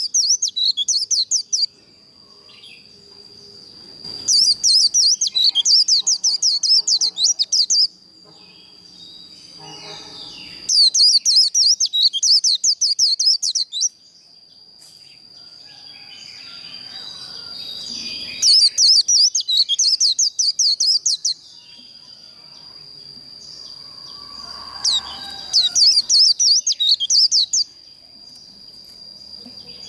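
White-eye singing its fast, chattering 'líu' contest song in loud bursts of two to three seconds, about every six seconds, with softer calls in between and a thin steady high tone underneath.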